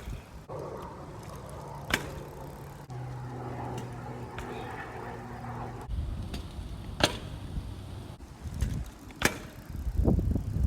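Bicycle being ridden and pulled into wheelies: several sharp clacks a few seconds apart as the front wheel drops back down, over a steady low hum in the first half and gusts of wind on the microphone.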